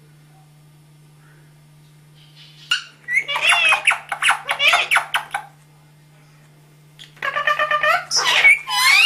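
A talking parrot chattering in rapid, speech-like calls, in two bouts: one starting about three seconds in and lasting a couple of seconds, another starting about seven seconds in.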